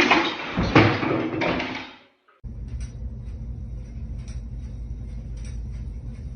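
A loud, noisy clatter with voices in it fades out about two seconds in. Then comes a steady low hum with irregular light clicks and ticks, typical of a ceiling fan running.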